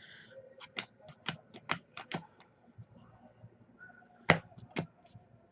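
Sharp, irregular clicks and taps of trading cards being flipped and handled: a quick run of about eight, a pause, then two louder snaps about half a second apart near the end.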